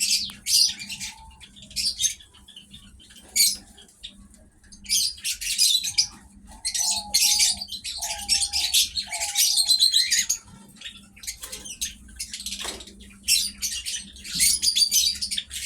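Pet birds chirping in rapid, dense bursts of high twitters, with short pauses. In the middle comes a run of about four short, lower notes in a row.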